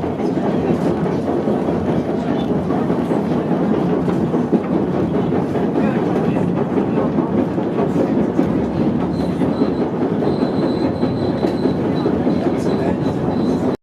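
White Pass and Yukon Railroad passenger train rolling along the track, heard from aboard: a steady rumble of wheels on rails with faint clicks. A thin, faint high squeal joins about two-thirds of the way through.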